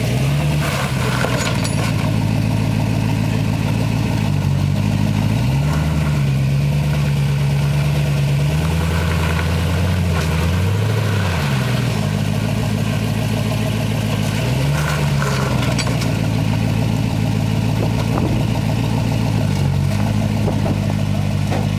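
Rock crawler's engine working under load on a rock climb, its revs rising and falling again and again, with a longer high-rev push about halfway through.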